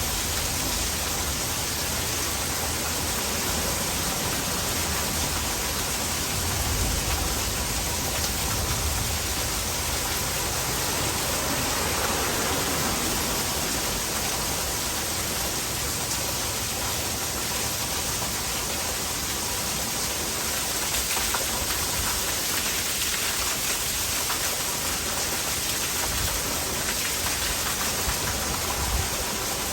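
Heavy rain falling steadily, with runoff water pouring into a gutter, making an even, continuous rushing hiss. Brief low rumbles swell up now and then underneath.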